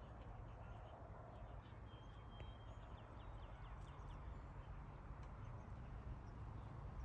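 Faint outdoor ambience: a steady low rumble like wind on the microphone, with a short high call and a quick run of small chirps about two seconds in, like a bird.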